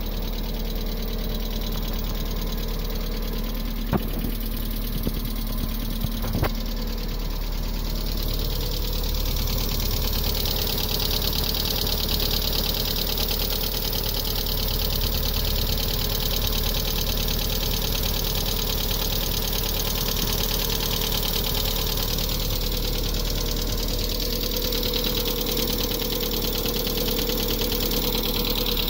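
1998 MGF's 1.8-litre Rover K-series four-cylinder engine running steadily, making an unidentified noise that has appeared after the car stood for a few months. Two sharp clicks come a couple of seconds apart early on, and a hiss or whine in the upper range grows louder from about a third of the way in.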